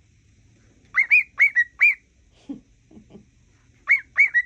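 Cockatiel whistling: short, clear notes that rise and hook over, in a quick run about a second in and another run near the end.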